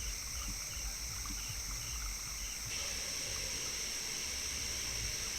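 Night insects, crickets among them, keep up a steady high-pitched drone, with a rhythmic chirp about three times a second that stops a little over halfway through, over a low rumble.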